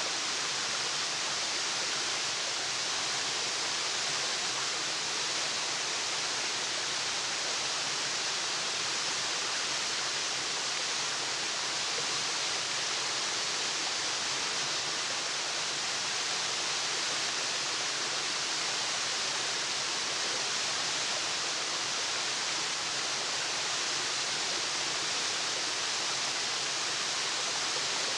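Waterfall running steadily: an even, unbroken hiss of falling water, with no changes in level.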